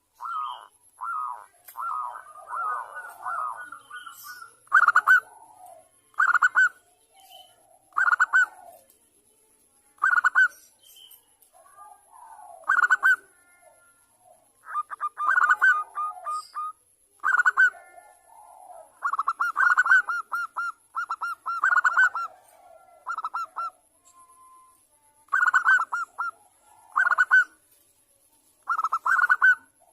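Zebra dove (perkutut) cooing: repeated short phrases of rapid, stuttering coo notes, one every second or two, with brief pauses between.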